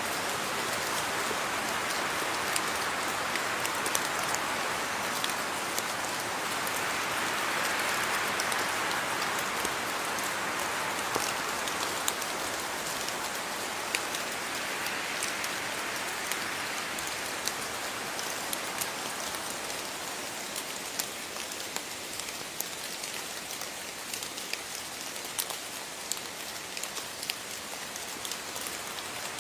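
Steady rain falling, an even hiss with many sharp drop ticks scattered through it, easing slightly in the second half.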